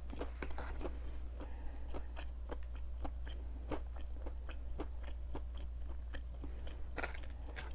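Close-up chewing of crispy breaded plant-based fried chicken nuggets (KFC Beyond Fried Chicken): irregular small crunches and crackles of the fried coating with mouth sounds.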